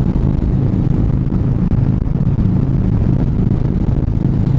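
Harley-Davidson motorcycles running steadily at highway cruising speed: a constant low engine drone with road noise.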